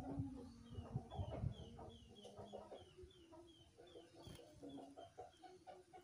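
A small bird gives a rapid series of short, high, falling chirps, about three a second, over hens clucking in the background. A few low handling thumps come in the first second and a half.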